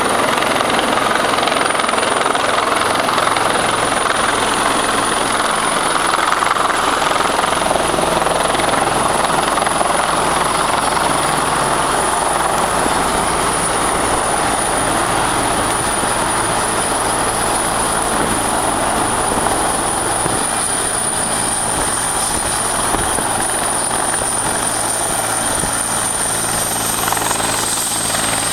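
Rescue helicopter running close by: a steady, loud rotor and engine noise with a thin high whine that drifts slightly lower near the end.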